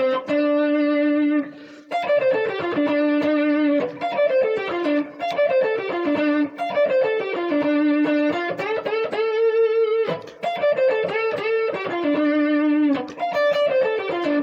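Electric guitar playing a single-note blues solo phrase: held and bent notes, with strings bent up in pitch, and repeated descending runs. There is a short pause about ten seconds in before the phrase goes on.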